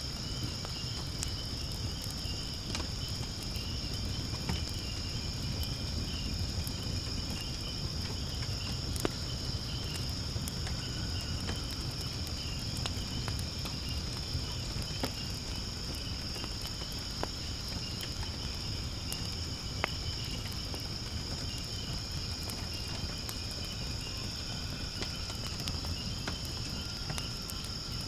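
Crickets chirring steadily in a continuous high-pitched chorus, over a wood fire crackling with scattered sharp pops, two of them louder about 9 and 20 seconds in.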